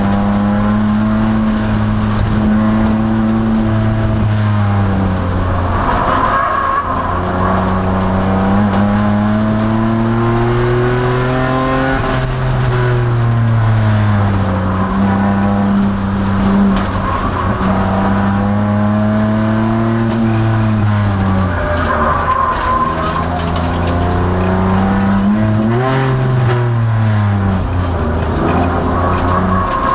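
A 2002 Nissan Maxima race car's engine heard from inside the car at racing speed. The pitch climbs for several seconds under acceleration, then drops off for braking into corners; this repeats about four times, with the longest climbs a few seconds and about ten seconds in.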